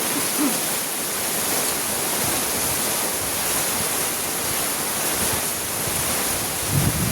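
Heavy rain falling steadily, an even hiss of water. A low rumble comes in near the end.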